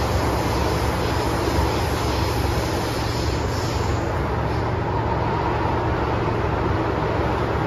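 MTR M-train running along the line: steady wheel-on-rail rumble and traction noise, with no change in level.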